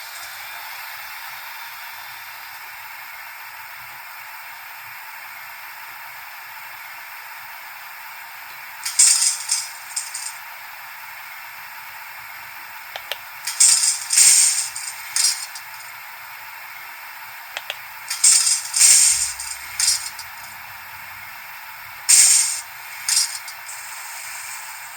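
Sound from the small onboard speaker of a Minitrix N-scale BR 103.1 model electric locomotive: a steady thin hiss with no bass. Four times it is broken by groups of short, loud hissing blasts, the last near the end.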